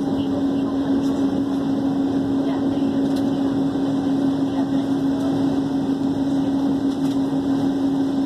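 Passenger train running at speed, heard from inside the carriage: a steady rumble of running noise with a constant drone under it and a few faint clicks.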